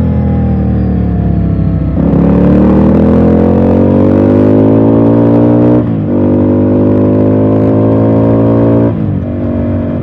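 Ducati Scrambler's L-twin engine heard from the rider's seat, pulling hard and rising in pitch after about two seconds. It dips briefly for a gear change near the middle, pulls again, then the throttle closes near the end.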